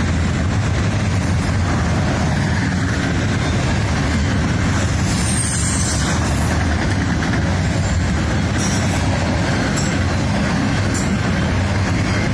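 Train rolling past on the rails, a loud, steady rumble.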